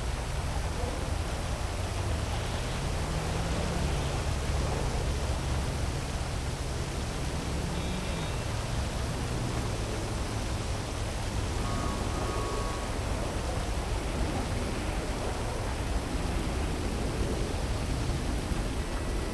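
Steady hiss of heavy rain over a city. Underneath it, a low hum of traffic rises and falls in pitch, and a couple of brief faint tones sound about halfway through.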